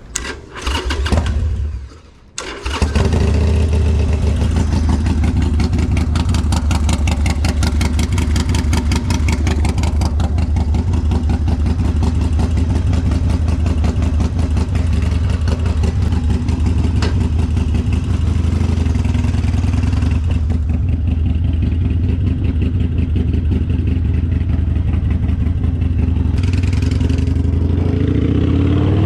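Harley-Davidson Sportster V-twin cranked on the electric starter for about two seconds, catching just after and then running steadily with a deep, pulsing exhaust note through an aftermarket exhaust.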